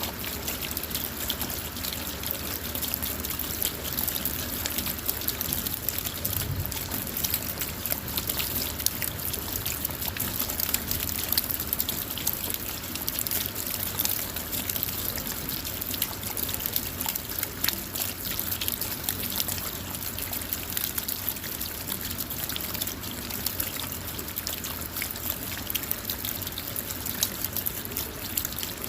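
Steady rain falling on a car, heard from inside, with many separate drops pattering through an even hiss.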